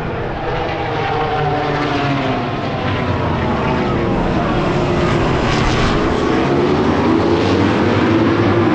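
MotoGP racing motorcycle engine at high revs, its pitch sagging and then climbing again, growing louder towards the end.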